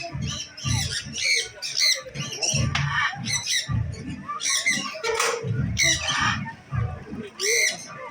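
Parrots squawking: many short, harsh, high calls, repeated and overlapping throughout.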